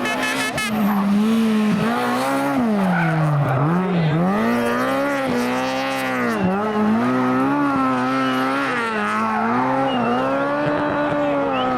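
Rally car engine revving hard under load, its pitch climbing and falling as the driver works the throttle, with sudden dips in pitch about two seconds in, around four seconds in and again midway, as it lifts off and changes gear.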